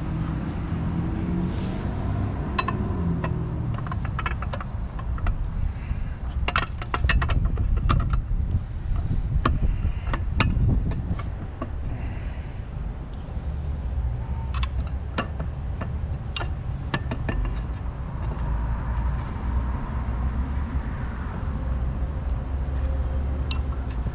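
Scattered metallic clinks, knocks and scrapes as an outboard's lower unit and its bolts are worked back into place, over a steady low rumble.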